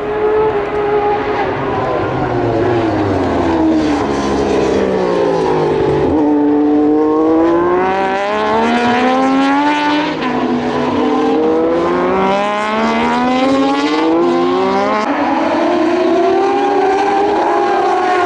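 Several Moto2 race bikes, Triumph 765 cc three-cylinder engines, passing at racing speed, their engine notes climbing through upshifts and falling away as they go by, with several engines overlapping.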